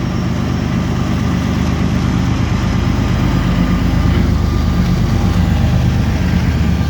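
CSX diesel freight locomotives hauling a loaded coal train, their engines running with a deep, steady, pulsing drone that grows slowly louder as they come closer.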